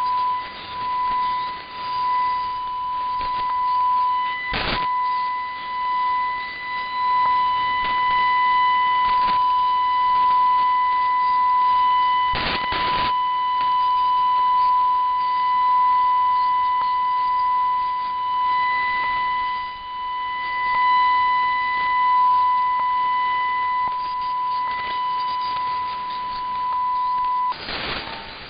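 A steady 1 kHz test tone heard over shortwave AM radio, swelling and fading in strength through background hiss, with sharp static crashes about five and twelve seconds in. The tone stops about 27 seconds in, leaving only hiss.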